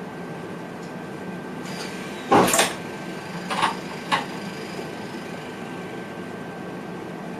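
Steady hum inside the driver's cab of a VIRM double-deck electric train, with one loud sharp knock a little over two seconds in and two smaller clatters about a second later.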